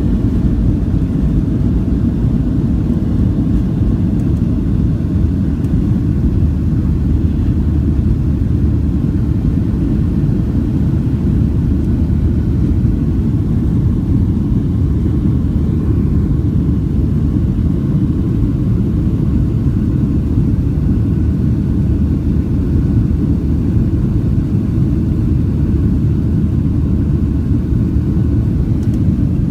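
Steady low rumble of jet engines and airflow heard from inside the passenger cabin of a Southwest Boeing 737, even in level throughout.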